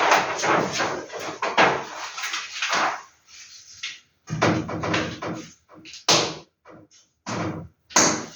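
Vintage paper posters being handled and unfolded, rustling and crinkling in irregular bursts with short pauses, with sharp paper snaps about six and eight seconds in.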